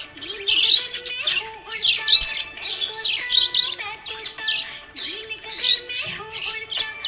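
Budgerigar chirping and warbling in quick repeated bursts, about one or two a second, over steady background music.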